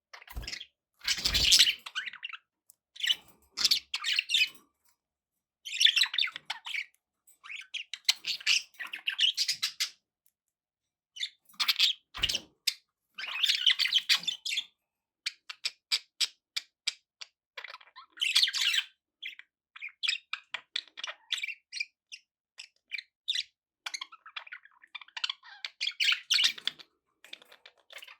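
Budgerigars chirping and warbling in short bursts, with rapid clicky chatter between the calls.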